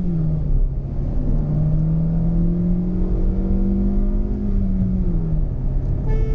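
Hyundai Venue's 1.2-litre four-cylinder petrol engine pulling hard under full acceleration through a manual gearbox. The engine note drops at a gear change just after the start, rises steadily for about four seconds, then drops again at another upshift about five seconds in. A short tone starts near the end.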